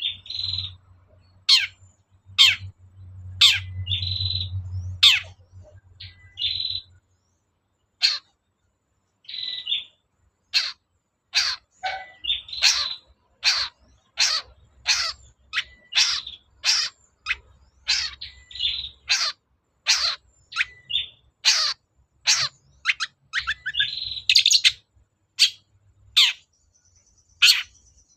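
Long-tailed shrike (cendet) singing a run of sharp, short calls, about one to two a second, mixed with brief held higher notes.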